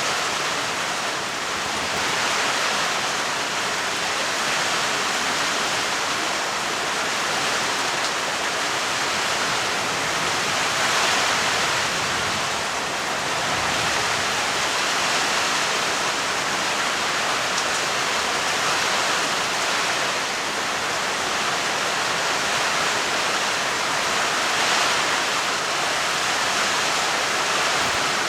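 Steady heavy rainfall: a dense, even hiss of rain that swells slightly a few times.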